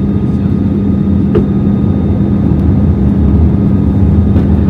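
Airbus A320 cabin noise on descent: a steady low rumble of engines and airflow with a constant hum. There is a faint click about a second and a half in.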